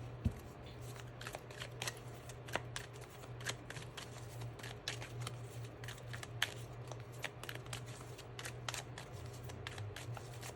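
A deck of tarot cards being shuffled by hand: a run of quick, irregular card clicks and snaps, over a low steady hum.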